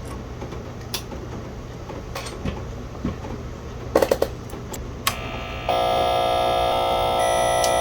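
A few sharp clicks, like switches or buttons being pressed. Then, near the end, a loud steady electrical buzz with many overtones comes on as the Commodore 128 is powered up.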